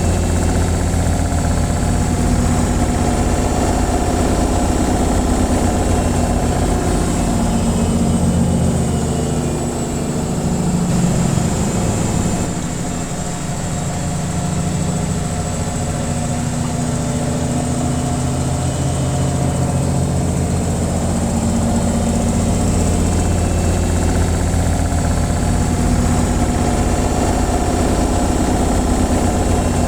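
Washing machine on its spin cycle: a steady motor hum and drum whir with low droning tones, which ease briefly about ten to thirteen seconds in and then settle back.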